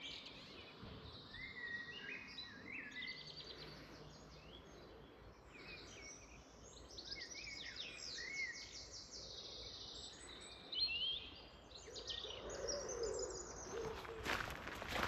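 Several songbirds singing in a garden, overlapping chirps, whistles and fast trills. Near the end, footsteps on a path start up.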